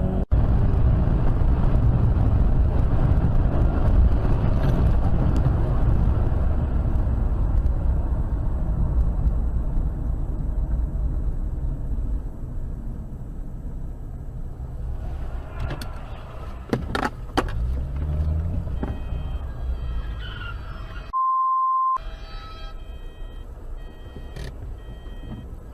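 Steady low rumble of road and engine noise inside a moving car, dying away after about ten seconds, with a few sharp clicks later on. Near the end, a short steady beep of about a second, a censor bleep over the audio.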